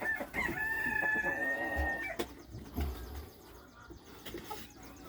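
A rooster crowing once, a single long call held for about two seconds near the start.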